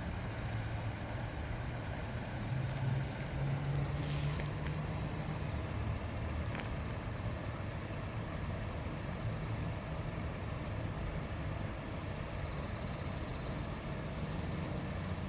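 Shallow river babbling steadily, a continuous rush of water with a low rumble underneath.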